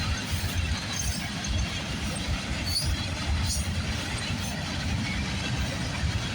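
Freight train rolling past with a steady low rumble of wheels on the rails, and a faint high squeal or two about halfway through.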